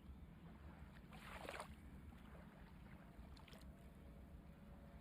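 Near silence: low steady room hum, with one brief soft rustle about a second in and a couple of faint ticks later.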